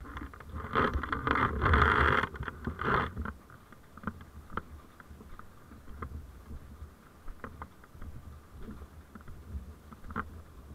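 Vehicle noise heard on a dash camera: a loud rough burst of noise for the first three seconds, then a low steady rumble with scattered light clicks.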